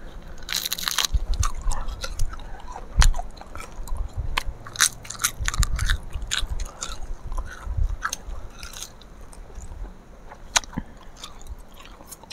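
People biting and chewing crunchy food: irregular sharp crunches, thickest near the start and thinning out toward the end.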